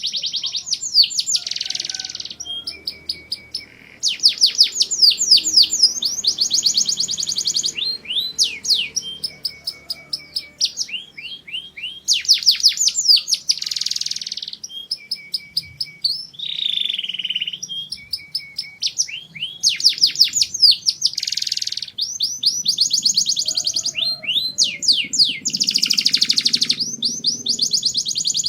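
Domestic canary singing a continuous song of rapid trills, falling sweeps and rolling tours, each phrase repeated many times a second.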